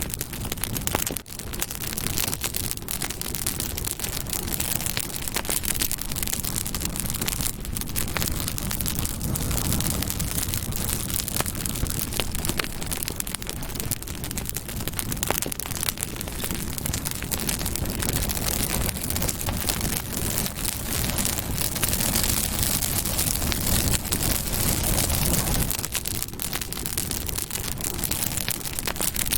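Campfire burning: wood crackling and popping continuously over a steady low rush of the flames.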